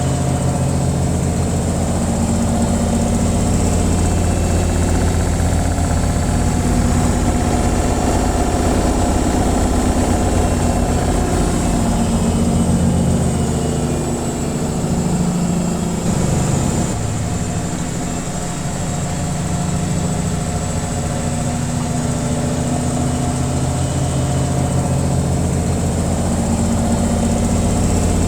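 Washing machine on its spin cycle: the drum and motor give a steady, loud, low hum with vibration. It dips a little in level and wavers about halfway through, then settles back.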